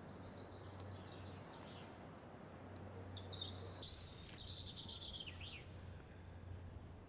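A songbird singing two short phrases of quick, high, trilled notes, the first at the start and the second about three seconds in, over a steady low hum and faint outdoor background noise.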